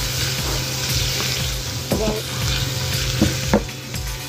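Raw prawns with minced garlic and ginger sizzling in hot oil in a frying pan during a stir-fry, with a few knocks of the spatula against the pan about two seconds in and twice more after three seconds.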